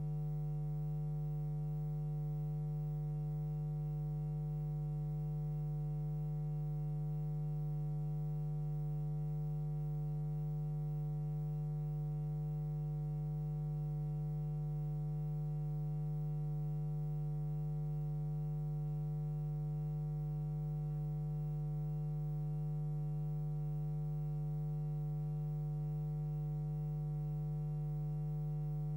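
Steady electrical mains hum with a stack of buzzing overtones, strongest in a low droning note, unchanging throughout.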